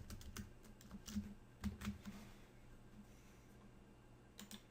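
Faint, scattered clicks of computer keyboard keys and mouse buttons: several in the first two seconds and a couple more near the end.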